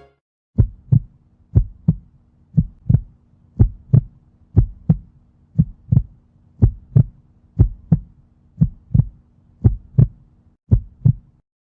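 Heartbeat sound effect: pairs of low lub-dub thumps, about one pair a second, over a faint steady hum.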